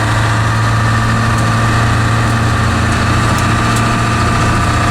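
7.3 L Powerstroke turbo-diesel V8 in a Ford F600 truck running at a steady, even engine speed while the truck is driven slowly, heard from inside the cab.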